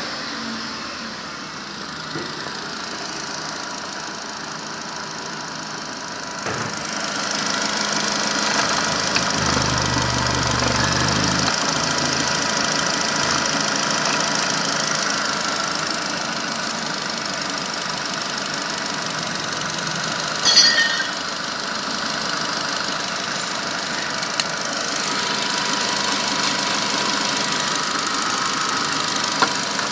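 Nissan HR16DE 1.6-litre four-cylinder petrol engine running at idle. It gets somewhat louder about seven seconds in and settles back later, with a brief sharp clatter about twenty seconds in.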